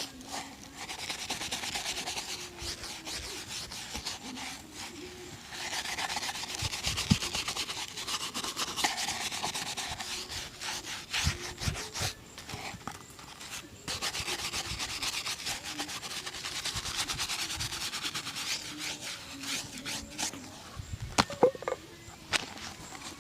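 Shoe being polished by hand: steady scrubbing on the leather in three long stretches with short pauses between them, then a few sharp knocks near the end.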